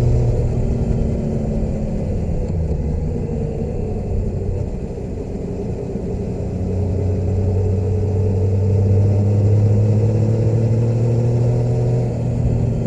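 Motorcycle engine running while riding. The engine note drops about half a second in, climbs slowly over several seconds, and falls back sharply near the end.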